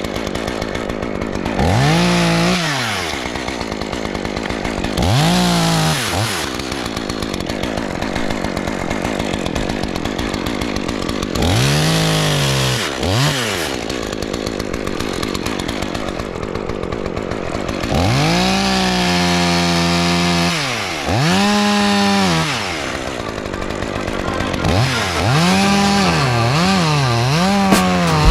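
Two-stroke chainsaw revving up and dropping back to idle again and again. Twice in the latter half it is held at high revs for a couple of seconds, and it revs in quick blips near the end.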